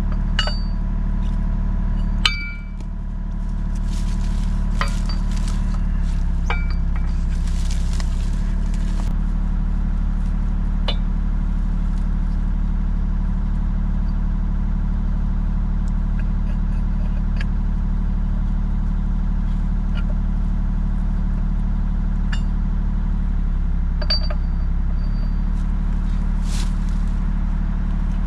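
Excavator's diesel engine running steadily, with a few sharp metal clinks, the loudest about two seconds in. The engine note shifts briefly twice.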